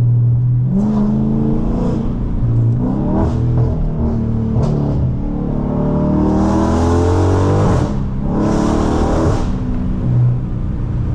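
A Dodge Charger Scat Pack's 392 (6.4 L HEMI) V8 through catless mid-pipes and an MBRP race exhaust, pulling hard under acceleration with the revs climbing. There is a gear change about eight seconds in, a second climb, then the revs drop back to a steady low drone near the end.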